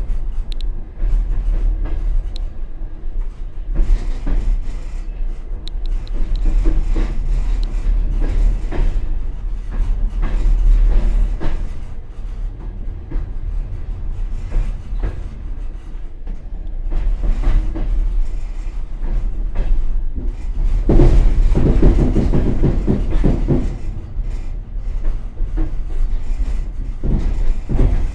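Passenger train running, its wheels clattering over rail joints above a steady low rumble, heard from inside the rear vestibule of the last car. The clatter grows louder and busier about three quarters of the way through.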